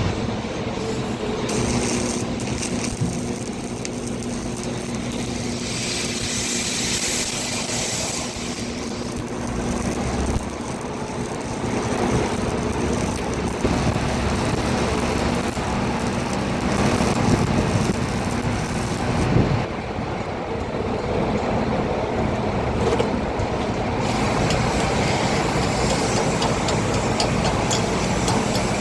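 A heavy engine running steadily, with a constant low hum, under a hiss that grows and fades in stretches of a few seconds.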